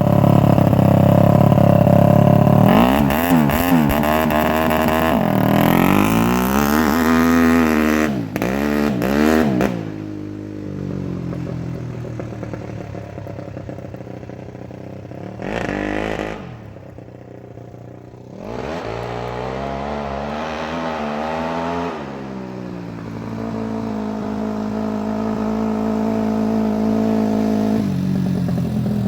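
Suzuki RM-Z250 dirt bike's single-cylinder four-stroke engine being ridden, revving up and down several times in quick succession, easing off to a quieter run in the middle, revving once more, then running steadily.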